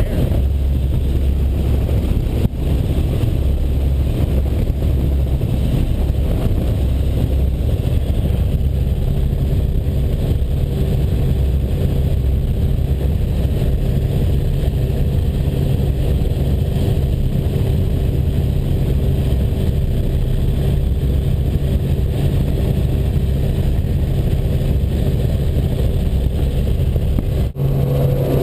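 Robinson R44 Raven helicopter's engine and rotors droning steadily, heard from inside the cabin.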